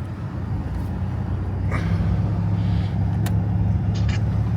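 Steady low engine and road drone heard from inside a truck's cab while driving, with a sharp click about three seconds in.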